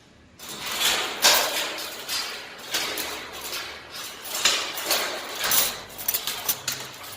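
Steel door being fitted onto its frame and tried: irregular metallic clanks, knocks and scrapes, several a second, starting about half a second in.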